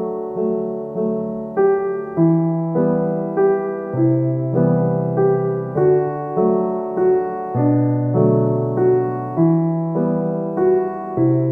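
Slow piano music: a melody of single notes struck about every half second over held low bass notes.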